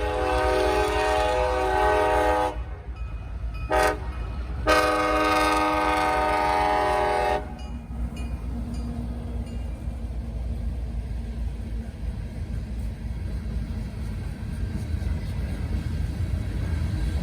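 CSX local's diesel locomotive horn sounds a long blast, a quick short toot and another long blast, several notes at once. Then the locomotive and train rumble past steadily.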